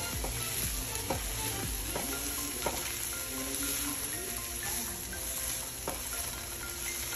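Broccoli florets sizzling steadily as they fry in hot oil in a nonstick pan. A spatula stirs them, adding scattered scrapes and light knocks against the pan.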